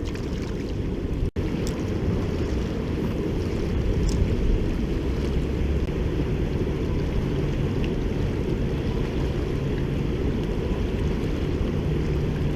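Steady low rumble of wind buffeting the microphone outdoors by a river, with a momentary drop-out of the sound about a second in.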